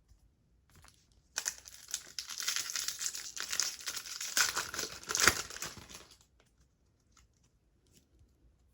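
Plastic-foil trading card pack wrapper crinkling as it is handled, a dense crackle starting about a second and a half in and dying away about six seconds in.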